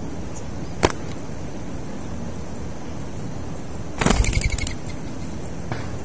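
A single sharp click, then about three seconds later a short flurry of rapid wing flaps from a dove, over a steady hiss of wind.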